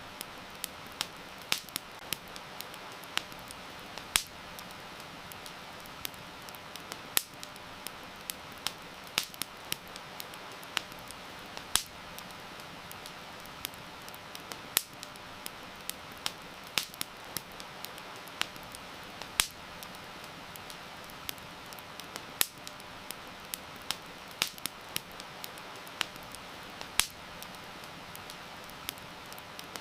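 Wood fire crackling with irregular sharp pops, some close together and some a second or more apart, over a steady hiss of heavy rain.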